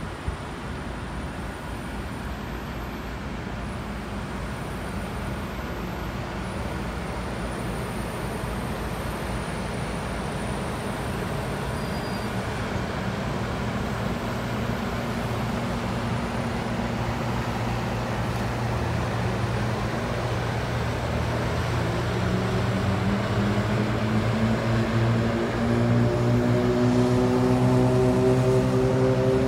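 Union Pacific heritage passenger cars rolling past, a steady wheel-on-rail rumble. An oncoming freight train's diesel locomotives grow louder in the second half, their engine drone rising slightly in pitch toward the end.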